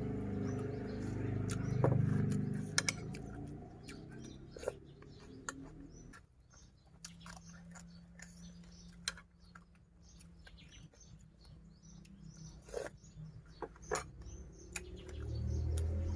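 Close-miked chewing of a spicy seaweed salad, with sharp crunches and mouth clicks scattered through, while birds chirp in the background. Low background music is heard for the first few seconds, then fades.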